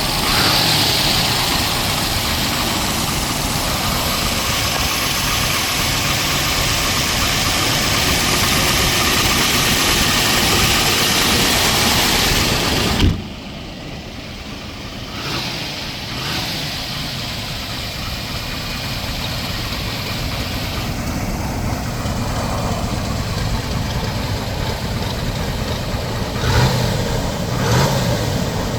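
1962 Chevrolet Corvette's 327 V8 running at idle. About thirteen seconds in there is a thump, after which the engine sounds quieter and duller. Near the end it rises briefly twice.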